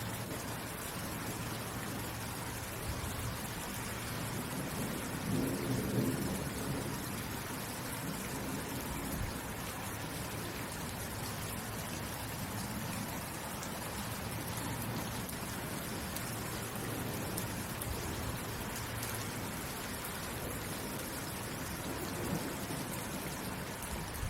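Steady rainfall, an even hiss of falling rain. About five to seven seconds in, a low rumble of thunder swells up and fades.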